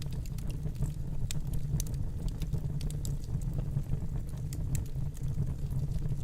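Wood fire burning in a fireplace: a steady low rumble of the flames with scattered sharp crackles and pops, several a second.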